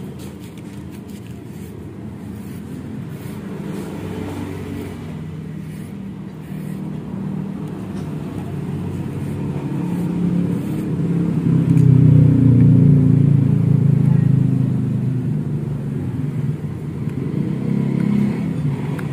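A motor vehicle's engine running. Its low hum builds to its loudest about twelve seconds in, then eases off.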